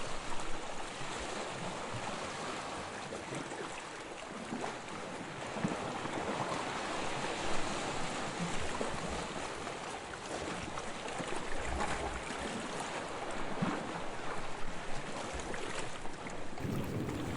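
Sea water washing and lapping, a steady rushing hiss that swells and eases slightly.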